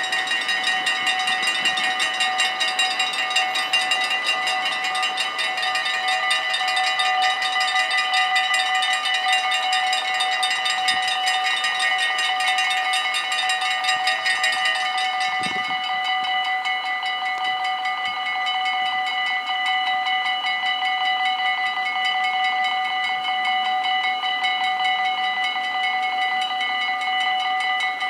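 Dutch level crossing warning bells ringing rapidly, several at once in different pitches. About halfway through some of the bells stop while the rest keep ringing.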